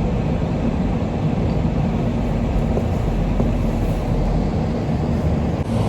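Steady low rumble of a moving vehicle's engine and road noise, heard from inside the cabin while driving.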